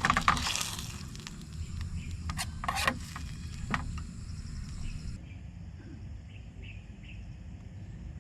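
A few sharp clicks and knocks in the first four seconds, then steady insect trilling with a few short chirps, over a low outdoor rumble.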